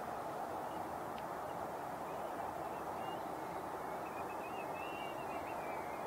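Steady rushing outdoor background noise. From about four seconds in, faint wavering calls of distant birds sound over it.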